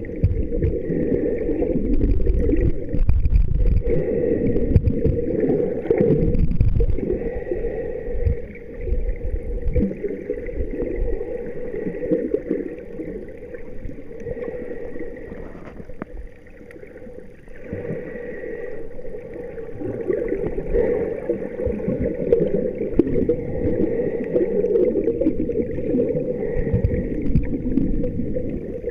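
Muffled water sloshing and gurgling, heard through a waterproof camera housing, rising and falling in surges.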